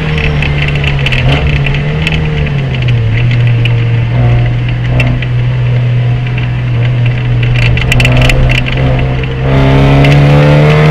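Race car engine under way, its pitch dropping as it eases off about two seconds in, then holding fairly steady. About nine and a half seconds in it gets louder and climbs in pitch as the throttle opens, with a few rattling clicks just before.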